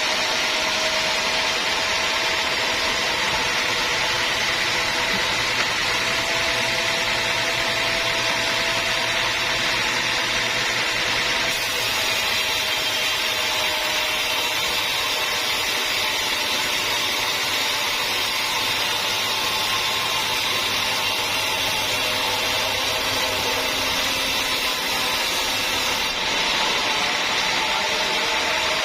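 Sawmill saw running steadily through a teak log, a continuous cutting noise with no breaks.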